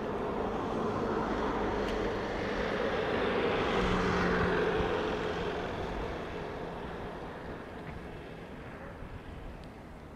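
A passing vehicle: a rushing hum that swells to its loudest about four seconds in, then slowly fades away.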